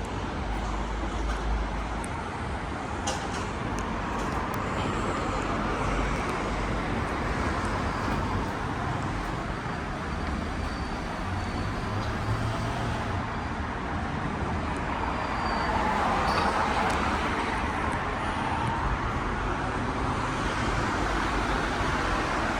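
Steady road traffic on a busy main road, with vehicles passing and the noise swelling twice as they go by.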